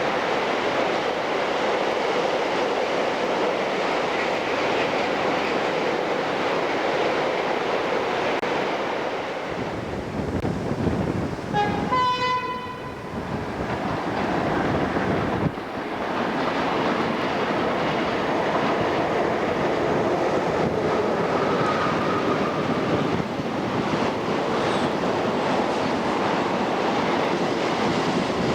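British Rail AC electric locomotive-hauled train running past, a steady rushing noise of wheels on rail. About twelve seconds in the locomotive gives a brief horn blast, and a sharp knock follows a few seconds later.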